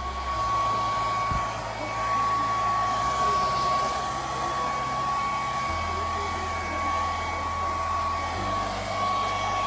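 Hand-held hair dryer running steadily: a constant rush of air with a steady whine.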